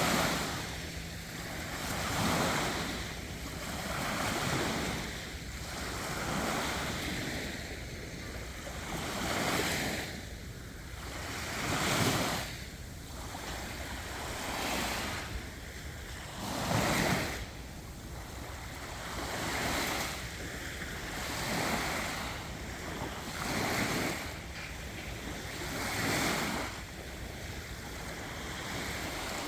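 Surf breaking on a beach: a wash of wave noise that swells and falls back every two to three seconds.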